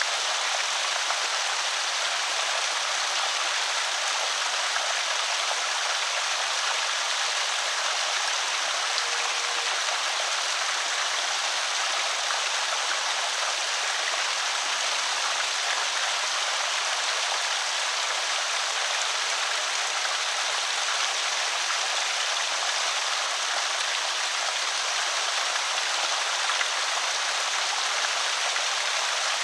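Water pouring steadily over a small creek spillway, a constant rushing and splashing.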